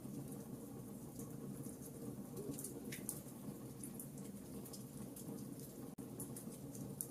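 Wood fire crackling: small irregular pops and snaps over a steady low rumble of flames, with one louder pop about three seconds in.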